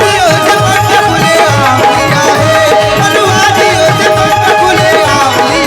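Live Indian devotional-song band music: a wavering melody line over a steady hand-drum beat, with no words sung.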